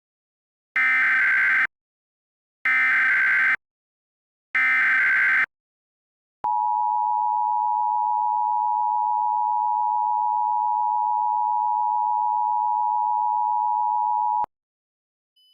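Emergency Alert System header: three short squawks of SAME digital data tones about a second apart, then the EAS attention signal, a steady two-tone beep held about eight seconds that cuts off abruptly. Together they mark the start of an emergency alert broadcast, here a hurricane watch.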